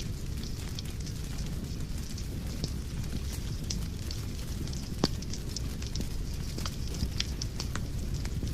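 Wood fire burning in a fireplace: a steady low rumble of flames with scattered sharp crackles and pops, one louder pop about five seconds in.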